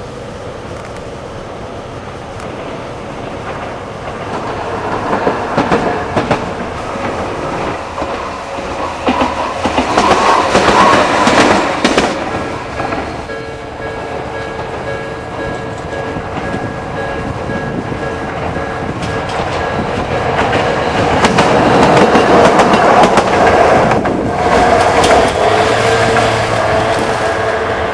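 Trains passing over Japanese level crossings with their wheels clattering on the rails, while the crossing warning bells ring steadily. One train passes loudest about ten seconds in and another about twenty-two seconds in.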